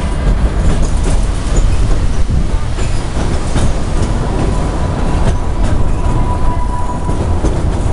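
The Cedar Point & Lake Erie Railroad's narrow-gauge passenger cars rolling along the track, heard from aboard: a steady loud rumble and rattle with scattered clicks from the rails. A faint, thin, steady squeal comes in about halfway through.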